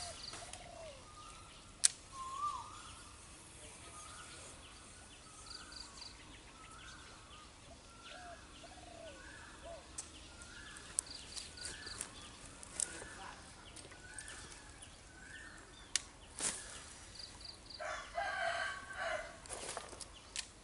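Birds calling outdoors: a short call repeated about once a second, with a few sharp clicks in between. Near the end a rooster crows once, for about two seconds.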